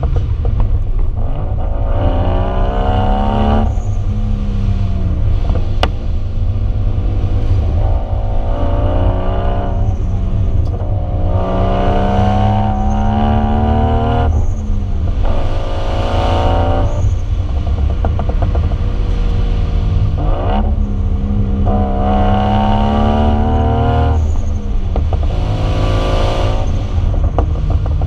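Lexus IS300's 1JZ inline-six running through a Vibrant exhaust, pulling under repeated acceleration: the engine note climbs in pitch for a few seconds, then drops back, five or six times over a constant heavy low rumble.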